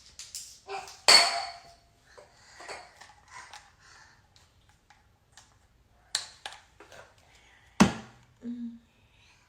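Scattered knocks and clatters of small hard objects being handled, a few sharp ones standing out about a second in and again near the end, with faint murmuring between them.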